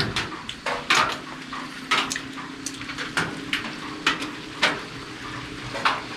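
Kitchen work: a run of sharp, irregular knocks and clatters, roughly one to two a second.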